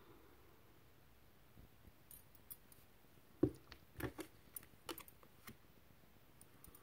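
Tarot cards being handled on a table: a scattering of light clicks and taps, the two loudest about three and a half and four seconds in.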